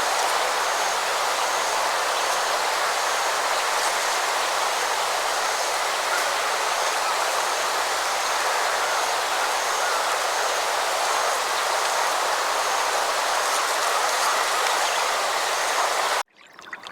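Steady rush of running water, with a faint high chirp repeating a little more than once a second. It cuts off suddenly near the end.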